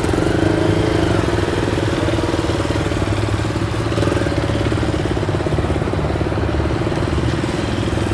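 Motorcycle engine running steadily, holding an even pitch with no revving, as the bike is ridden slowly.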